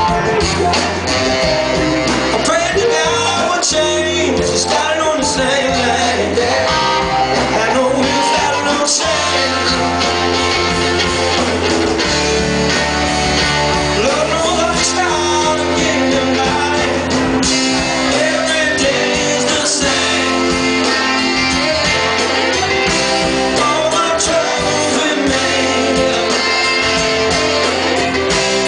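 Live band playing a rock and roll song, with guitar and a singing voice over a bass line.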